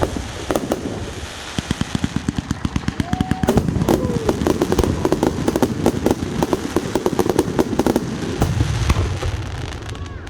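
Fireworks going off, a dense run of rapid sharp cracks and pops like a crackling finale, easing off near the end, with a few faint whistles.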